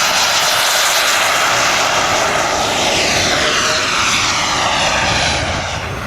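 Radio-controlled model aircraft engine flying past, its pitch falling as it goes by, over a steady loud rush of noise.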